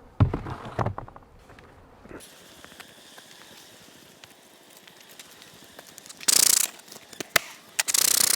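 Hands and tools working a beehive: a few knocks and clatters in the first second, then light clicks. Two bursts of hiss follow, a short one and a longer one near the end.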